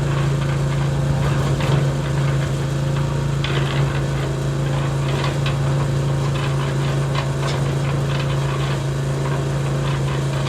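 A small motor running steadily with a constant hum, with scattered light clicks and knocks over it.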